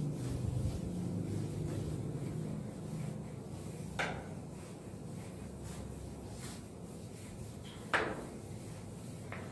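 Blackboard duster rubbing chalk off a blackboard, with two sharp knocks about four seconds apart, the second the louder.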